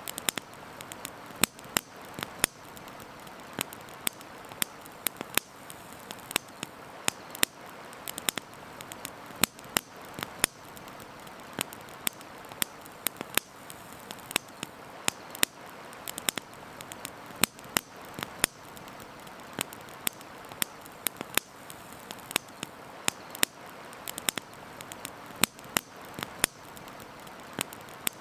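Campfire crackling: frequent sharp, irregular pops and snaps from burning wood over a steady hiss.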